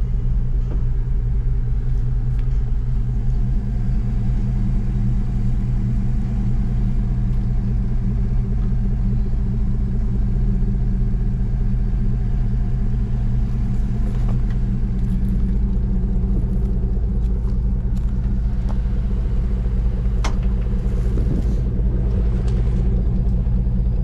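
Engine of a 1967 Chevy C10 pickup idling steadily, with a few faint clicks.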